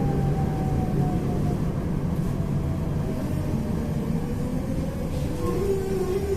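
Tram riding on rails, a steady low rumble under the whine of its electric traction motors, which falls slowly in pitch as the tram slows for a stop. Near the end a second whine rises briefly and then starts to fall.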